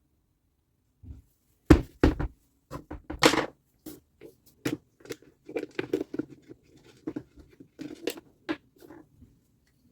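Irregular clicks, knocks and light clatter of metal and plastic saw parts and tools being handled during reassembly, the loudest knocks about two and three seconds in. There is no motor running.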